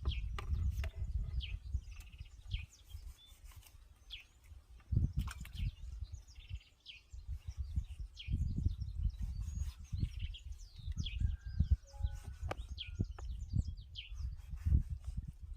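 Birds chirping, many short quick calls scattered throughout, over an irregular low rumbling noise.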